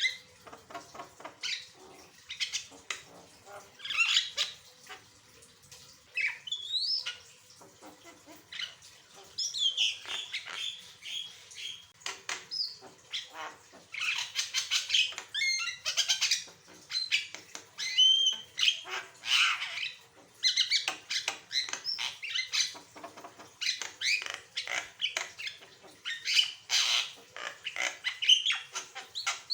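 Javan myna singing a busy, varied song: harsh squawks, chatter and short whistled notes, some rising in pitch, in quick runs with brief pauses.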